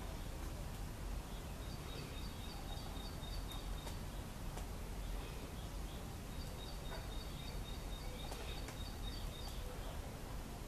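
A bird chirping in two quick runs of short, high notes, about four or five a second, over steady low background rumble.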